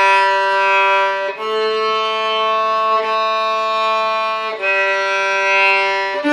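Violin bowing three long held notes in a slow exercise melody, the middle note a step higher than the first and last.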